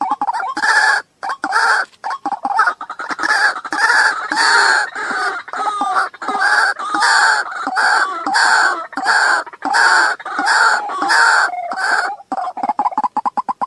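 Waterhen calling: a loud, harsh call repeated about twice a second, breaking near the end into a fast series of short clicking notes.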